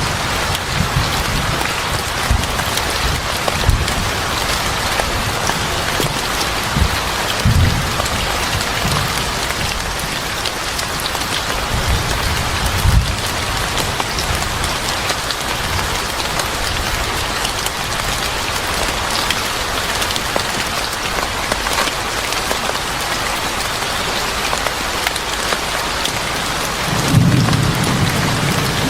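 Steady heavy rain, with low rolls of thunder rumbling several times, the strongest near the end.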